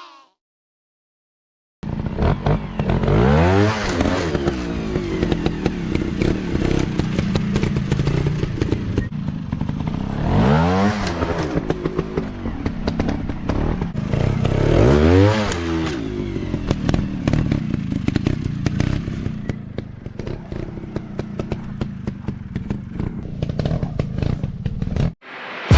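Dirt bike engines running with repeated revs, the pitch climbing and falling about three times, over a constant crackle and clatter. It starts suddenly after about two seconds of silence and cuts off just before the end.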